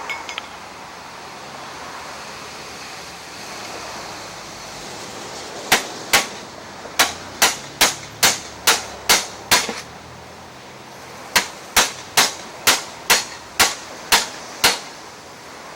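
Sharp hammer blows, about two a second in two long runs with a pause between, knocking a wheel that is stuck on its splined axle off a Craftsman self-propelled lawn mower.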